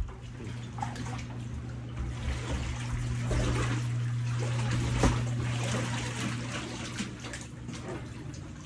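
Floodwater trickling and splashing steadily, over a steady low hum.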